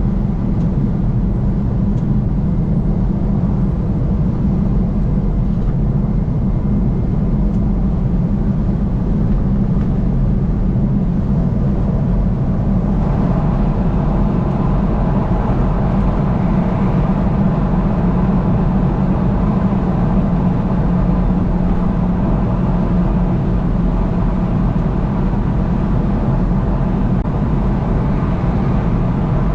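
Steady road and engine noise of a car travelling at highway speed, heaviest in the low end. The higher part of the noise grows a little louder about halfway through.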